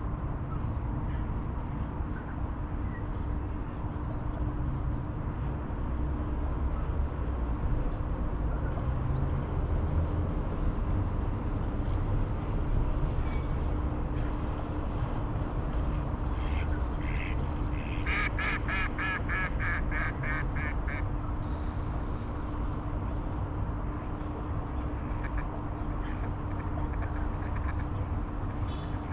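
A duck quacking in a quick run of about a dozen calls, roughly four a second, past the middle, over a steady low rumble.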